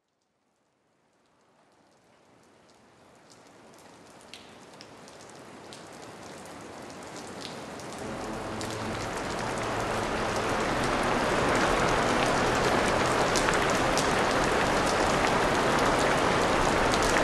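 Rain fading in from silence about two seconds in and growing steadily heavier into a dense, even downpour, with single drops ticking early on and a low rumble underneath in the second half.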